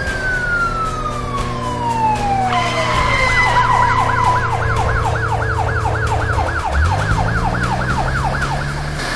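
Police car siren: a long wail falling in pitch, which switches about two and a half seconds in to a fast yelp of about four sweeps a second. Under it is the low hum of car engines, and an engine revs up near the end.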